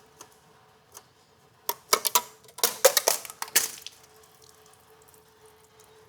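Metal parts or tools clattering and clinking in a quick cluster of sharp knocks lasting about two seconds, over a faint steady hum.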